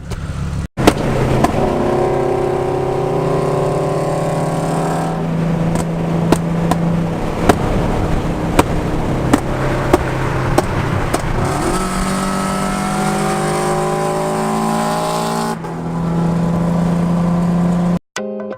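Nissan 350Z's 3.5-litre V6 engine pulling hard, its pitch rising as it accelerates, in two stretches. In between come a run of sharp clicks over the car noise.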